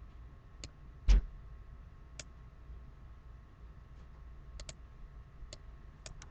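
Computer mouse clicking: sharp single and double clicks a second or two apart, with one louder thump about a second in, over a faint steady hum.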